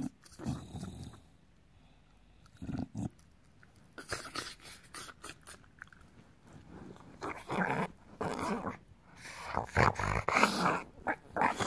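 English bulldog making rough, irregular throaty noises in bursts, which come more often and louder toward the end.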